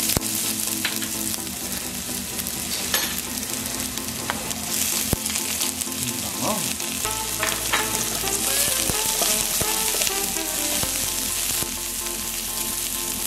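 Chopped garlic and onions sizzling in hot cooking oil in a frying pan, stirred with a slotted spatula, with short scrapes and clicks of the spatula against the pan.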